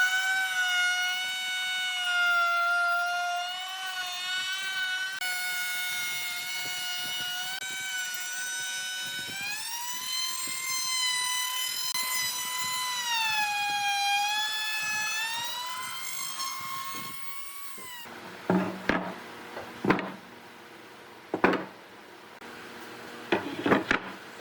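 Wood lathe running with a high whine that glides up in pitch, holds, and glides back down. The whine cuts off suddenly about three quarters of the way through, followed by several sharp wooden knocks.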